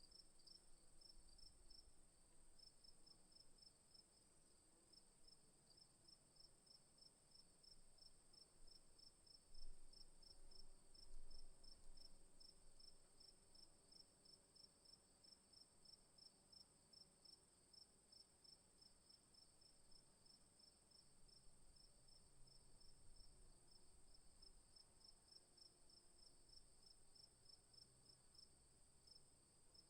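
Faint insects calling: a steady high buzz with a rapid, evenly pulsed chirping just below it. A couple of soft low bumps come around the middle.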